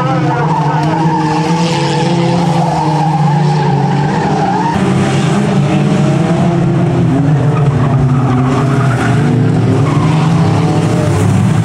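Engines of several banger racing cars revving hard together as they race round the oval, their pitches wavering up and down and overlapping.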